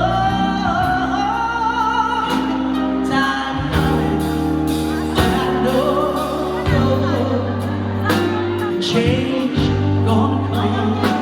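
A woman singing a held, wavering melody into an amplified sound system over backing music with steady bass and drum beats.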